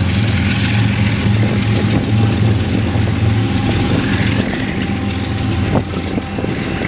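Freight train rumbling away just after passing: a loud, steady low hum that eases slightly near the end.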